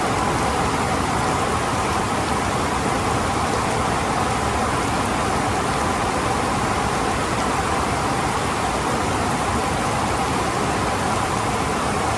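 Rain falling steadily during a thunderstorm, an even hiss with no thunder or impacts.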